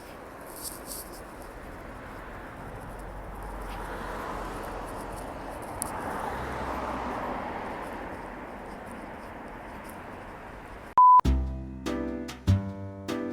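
Steady hiss of an electric egg steamer at work, swelling a little midway, then a single short high electronic beep about eleven seconds in. Acoustic guitar music starts right after the beep.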